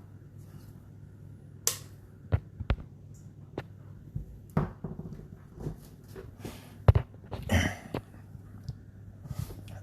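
Handling noise at a two-door fridge: a series of sharp knocks and clicks, with a longer rattle about three quarters of the way through, over a steady low hum.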